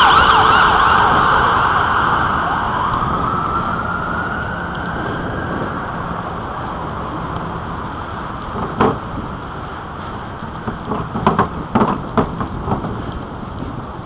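Emergency vehicle siren: a fast yelp at the start changes to a slow rising and falling wail that fades away, over steady wind noise on the microphone. A few short knocks come about 9 seconds in and again a couple of seconds later.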